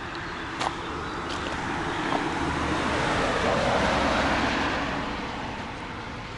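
A car driving past: a rushing noise of engine and tyres that grows louder to a peak a little past halfway, then fades away.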